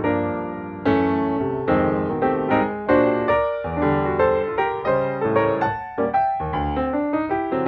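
Background piano music: notes struck one after another and dying away.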